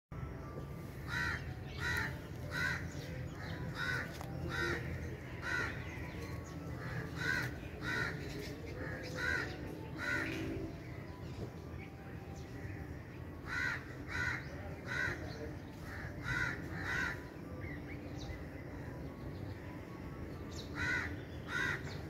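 A bird calling over and over: short calls come in runs of several, about three every two seconds, with pauses of a few seconds between runs.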